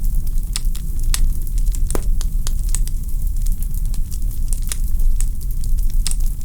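Wood fire burning in a fireplace: logs crackling with irregular sharp pops, several a second, over a steady low rumble.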